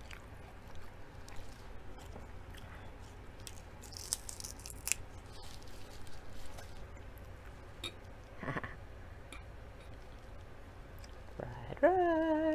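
Close-up eating sounds: soft chewing and mouth clicks, with a crisp crunch of a lettuce leaf about four seconds in. Near the end comes a short, loud voiced "mmm" held for under a second.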